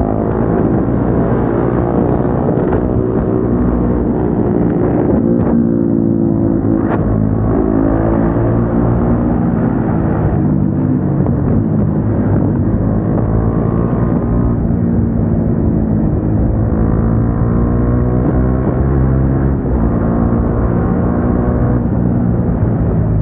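Single-cylinder sport motorcycle engines with aftermarket exhausts, a KTM Duke 390 on an SC Project full system and a Bajaj Dominar 400 on an Akrapovič slip-on, riding at speed. The engine pitch rises and falls again and again with the throttle and gear changes.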